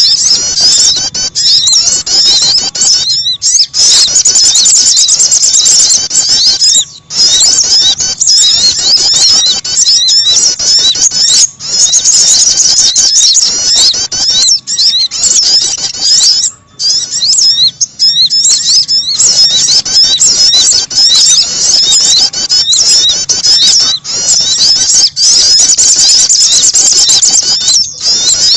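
Bird-lure recording of sogon and prenjak (prinia) calls: dense, rapid, high-pitched chirping and trilling, almost continuous with brief breaks every few seconds.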